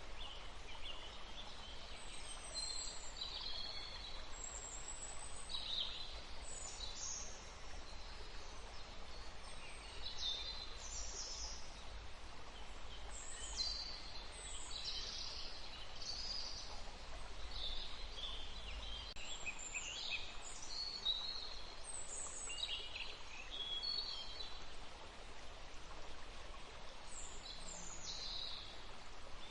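Forest birds singing and calling, with many short, high chirps and trills from several birds, over the steady rush of a forest stream.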